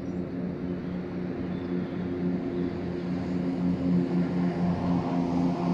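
Train approaching, its engine giving a steady low drone that grows gradually louder.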